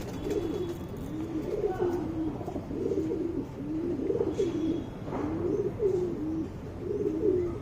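Domestic pigeons cooing, one low rise-and-fall coo after another with no break.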